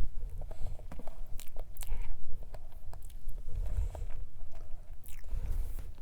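Close-miked chewing and biting of soft strawberry cream cake, wet mouth sounds with a few short sharp clicks.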